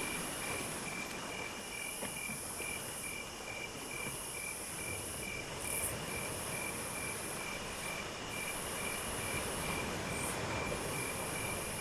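Chorus of insects, crickets among them: one chirps steadily in short even pulses about two to three times a second, over a higher trill that comes in spells of a second or so, with a steady hiss underneath.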